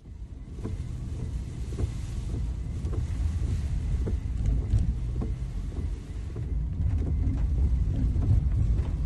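A steady low rumble with scattered faint knocks.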